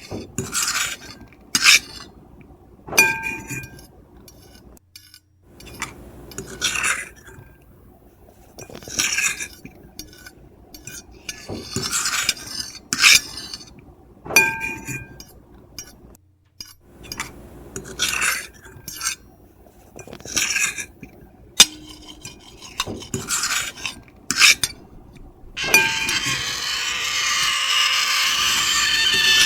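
Metal fork and knife scratching and clinking on a plate in short, irregular strokes, a few with a brief ringing squeal. Near the end comes one long, loud, continuous scrape lasting about four seconds.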